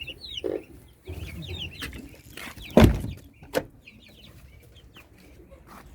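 Chickens clucking in short high calls. A loud knock comes about three seconds in, followed by a smaller one.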